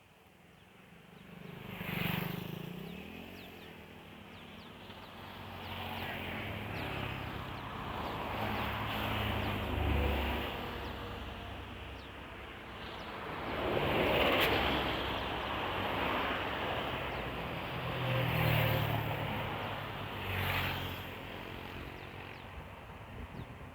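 Road vehicles passing on a paved highway, one after another: about five pass-bys, each swelling and fading with engine hum and tyre noise.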